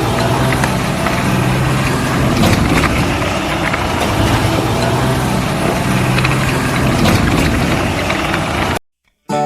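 A truck or tractor engine running steadily at low revs, cutting off abruptly near the end. After a brief silence, music starts.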